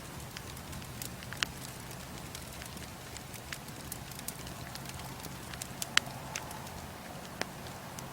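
Bonfire burning: a steady low hiss broken by scattered sharp crackles and pops of burning wood, the loudest about a second and a half in and about six seconds in.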